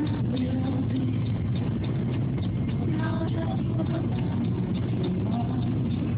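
Steady low rumble of a car's engine and tyres heard from inside the cabin while driving, with faint radio sounds over it.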